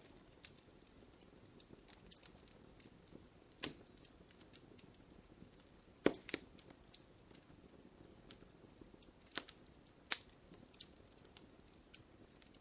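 Wood fire crackling in a fireplace: irregular small ticks and snaps over a faint hiss, with a few louder pops, the strongest about six seconds in.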